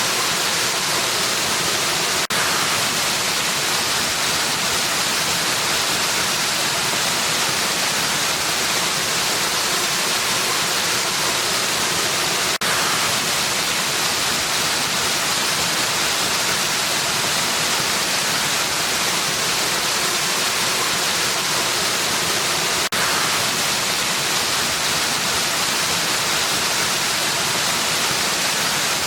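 Waterfall, a steady dense rush of falling water with a bright hiss, broken by three brief dips in level about ten seconds apart.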